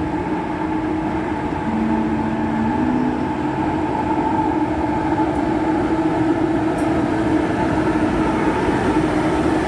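A train moving through a station: a steady rumble with humming tones, and a short extra hum about two seconds in.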